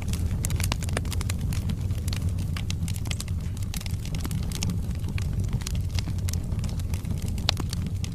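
Wood fire crackling and popping: quick, irregular sharp snaps over a steady low rumble of flames, with one louder pop near the end.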